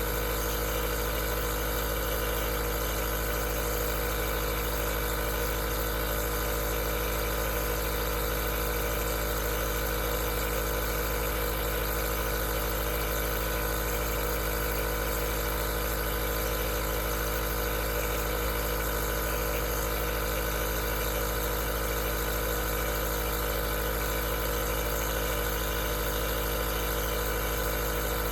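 Aerosol nebulizer running continuously: a steady mechanical hum made of many fixed tones, with a constant hiss of air over it and no change in pitch or level.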